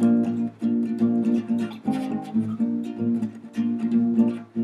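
Acoustic guitar strummed in a steady rhythm, chords ringing between the strokes, with a chord change about two seconds in.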